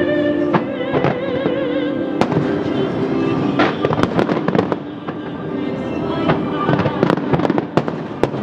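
Fireworks bursting and crackling in rapid, irregular bangs over music played for the display.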